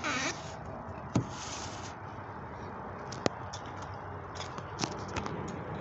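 A few sharp clicks and short rustling noises over a steady background hiss.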